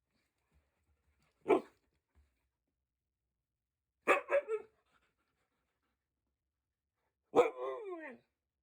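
A dog barking: a single bark, then three quick barks, then a longer drawn-out bark near the end that falls in pitch.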